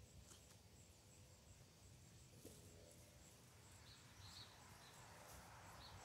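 Near silence: faint ambience, with a few soft bird chirps about four seconds in and again near the end.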